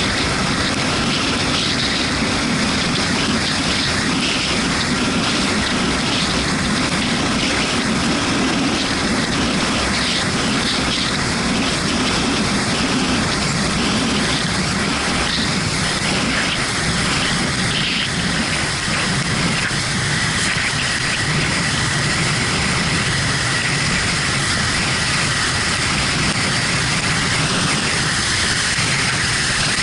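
Steady on-board noise of a Yamaha MT-125 motorcycle ridden in the rain: wind rush and hiss from the wet road, with the single-cylinder engine running underneath.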